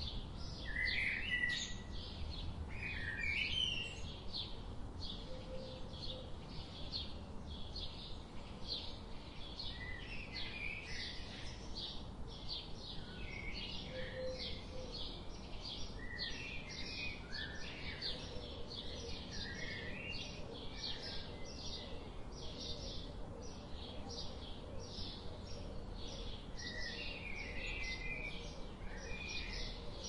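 Birds chirping: a steady run of short, high chirps about two or three a second, with scattered lower twittering calls, over a faint low rumble.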